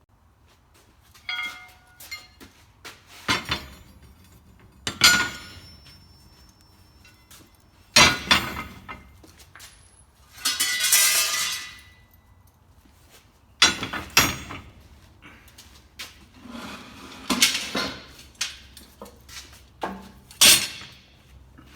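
Irregular clinks and knocks of steel tools and stock being picked up and set down in a blacksmith's shop, a few of them briefly ringing, with a longer scrape about ten seconds in.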